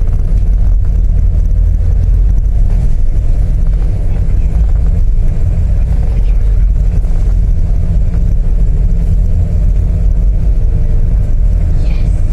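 Ship's engine running with a steady, loud low rumble, heard on board.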